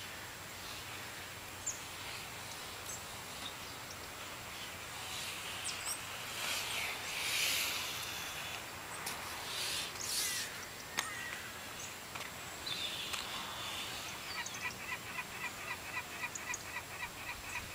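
Outdoor background noise with birds chirping, ending in a quick run of evenly repeated chirps over the last few seconds.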